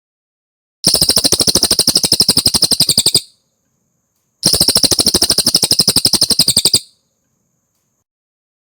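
Cililin songbird singing two fast trills of about two and a half seconds each, rapid evenly spaced high notes, with a short pause between them.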